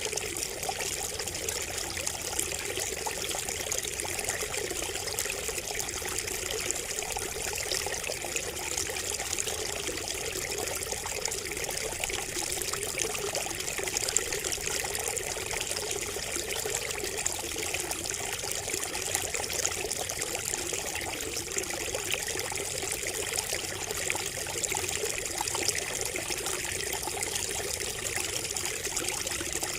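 Water trickling and splashing steadily from a bamboo spout, a continuous babbling with many small drips.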